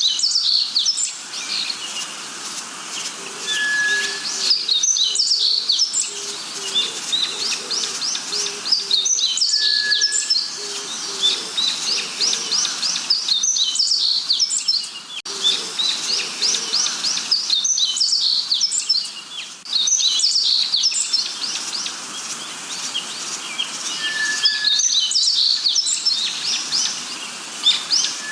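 Dense chorus of many birds chirping, with runs of rapid sliding notes. A short steady whistle recurs about four times, and a series of low repeated notes sounds beneath in the first half.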